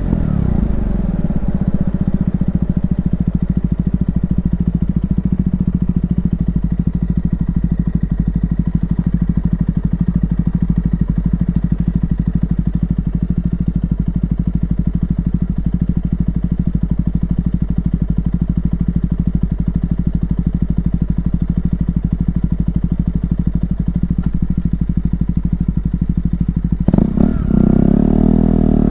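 KTM 125 Duke's single-cylinder four-stroke engine: revs drop in the first second, then it idles with an even, steady beat for most of the time, and is revved up again about two seconds before the end.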